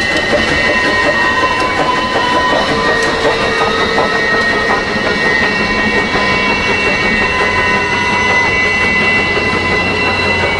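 Steam train running along the track: a steady loud din with a few high, held tones over it.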